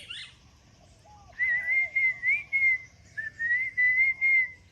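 A long, slightly wavering whistle held near one pitch, in two phrases of about a second and a half each, pulsing in loudness as it goes.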